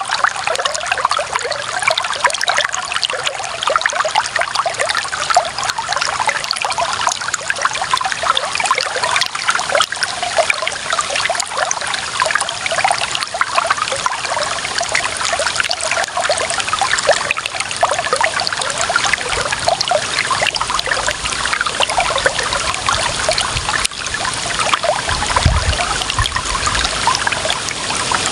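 Clear water running and trickling in a steady, bubbling flow, with a brief low rumble about 25 seconds in.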